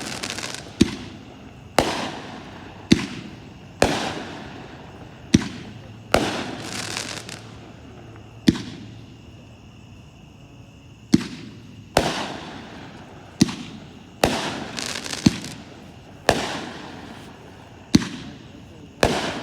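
Consumer firework cake ("Howlin' at the Moon", 25 shots) firing shot after shot: sharp bangs about one a second, each trailing off over a second or so, with a short lull near the middle where a faint whistle hangs.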